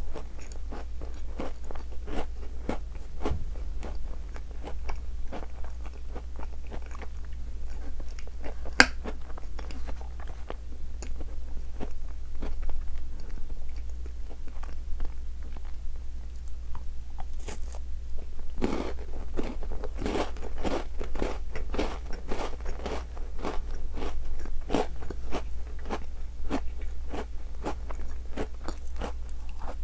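Close-miked chewing and crunching of Tim Tam chocolate-coated biscuits, a steady run of small crunchy clicks. A fresh bite a little past halfway brings a run of louder, quicker crunches, and there is one sharp click about nine seconds in.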